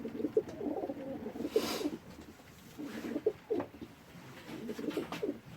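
Domestic pigeons cooing in the loft, in repeated low warbling phrases. A brief rustle about a second and a half in.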